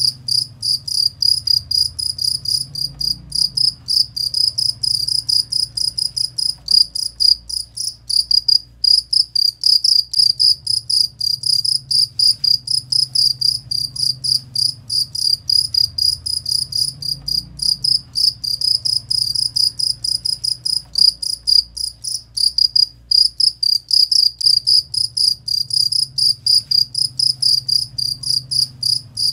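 Cricket (jangkrik) chirping in a fast, even, high-pitched trill of about four to five chirps a second, breaking off briefly twice, played as a masteran recording for training songbirds.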